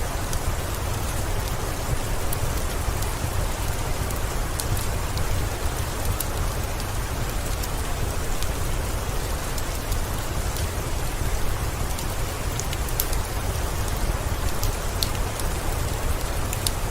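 Steady rain falling, an even hiss over a low rumble, with scattered sharp ticks.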